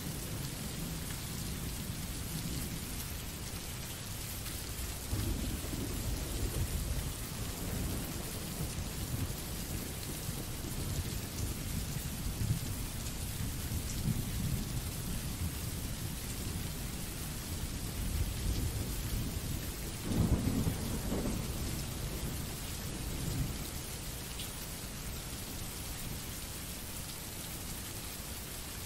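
Recorded rain sound effect: steady rain hiss, with low rumbles of thunder swelling and fading several times. The loudest rumble comes about two-thirds of the way through.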